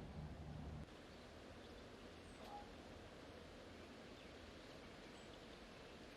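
Near silence: faint room tone. A low hum stops suddenly about a second in, and a faint tick comes a little later.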